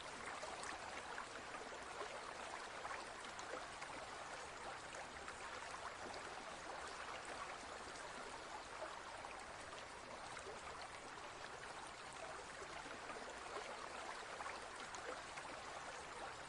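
Faint, steady rushing of running water, like a small stream.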